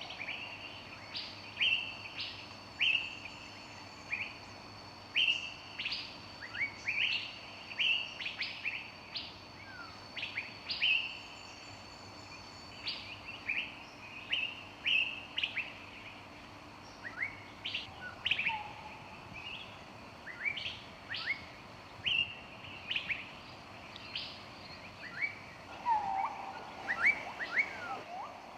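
Several songbirds chirping and calling, with many short high chirps and quick downward notes coming every half second or so. A few lower whistled notes come near the end.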